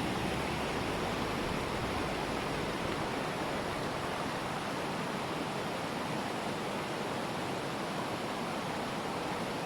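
Steady rushing of the Putna waterfall, falling water.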